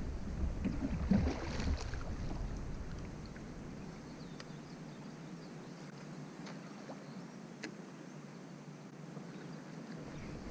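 Quiet sound on the water from a kayak: low wind rumble on the microphone for the first few seconds, then a faint steady haze with a few light clicks.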